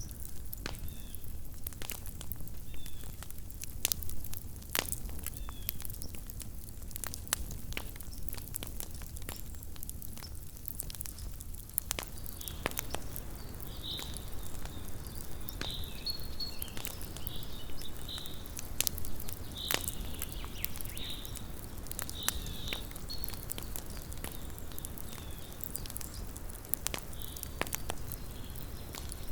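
Small wood campfire crackling, with irregular sharp snaps and pops. From a little before halfway, short high chirping calls come in again and again over the crackle.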